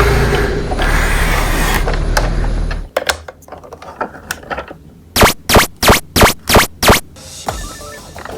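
A loud, deep rumble that cuts off abruptly about three seconds in, followed by scattered clicks and then six sharp knocks in quick, even succession.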